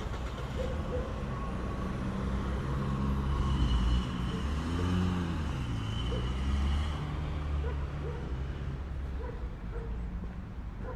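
A motor vehicle's engine running close by in street traffic, its pitch bending up and then down around the middle as it passes.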